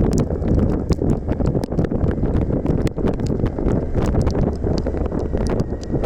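Wind rushing and buffeting over the microphone of a moving motorcycle, a loud steady roar with many irregular sharp ticks from raindrops hitting the camera.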